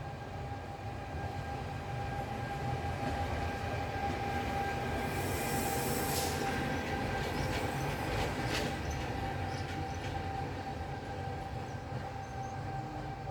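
Train running by with a low rumble and a steady high-pitched whine. It swells to a hiss near the middle, with a couple of sharp clicks.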